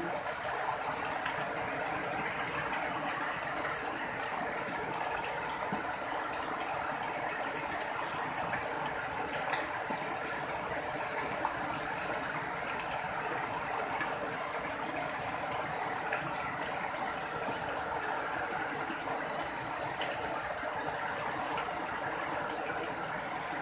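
Heavy rain falling steadily onto floodwater, a dense, even patter of countless drops.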